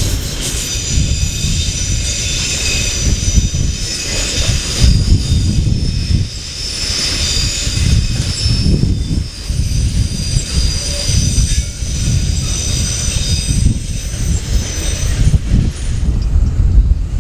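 Freight train wagons rolling past with wheel squeal: several thin high squealing tones over a low uneven rumble, the squeal fading out near the end.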